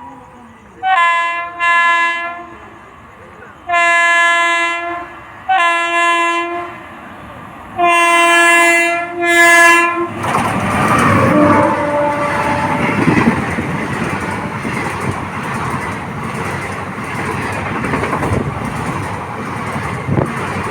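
Electric locomotive's multi-tone horn sounding six blasts in three pairs. About ten seconds in, the express train passes close by with loud wheel-on-rail rumble and clatter.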